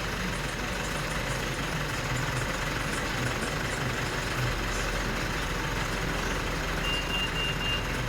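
Car engine idling steadily just after starting, with neat diesel in the sump as an oil flush and not revved. Near the end a series of short, evenly spaced high beeps starts.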